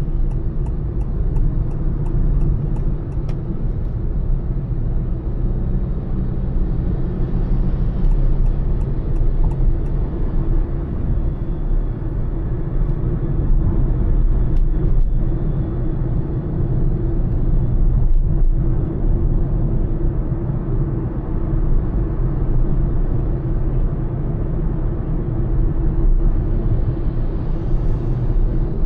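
Honda Elevate's 1.5-litre four-cylinder petrol engine and tyres at highway cruising speed: a steady low rumble of road and engine noise. A light ticking, about three a second, runs for the first few seconds and again for about two seconds around eight seconds in, like a turn indicator.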